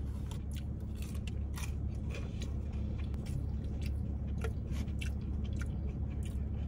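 A person chewing crunchy fried seafood mukbang-style: irregular crisp crunches and mouth clicks throughout.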